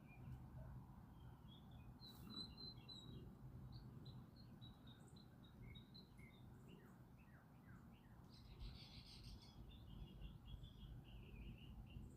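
Small wild songbirds chirping and singing, faint: scattered high chirps and a few quick falling notes, a brief dense trill about two-thirds of the way in, then a fast run of repeated notes, over a steady low outdoor rumble.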